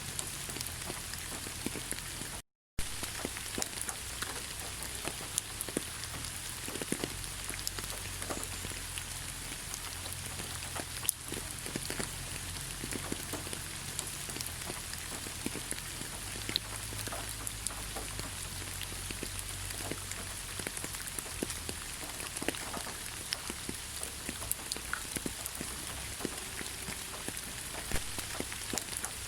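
Steady rain falling in a forest, an even hiss with many scattered individual drop taps. The sound cuts out to silence for a split second about two and a half seconds in.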